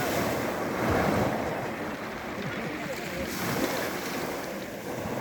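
Rough sea surf: waves breaking and washing up the shore, swelling loudest about a second in, with wind on the microphone.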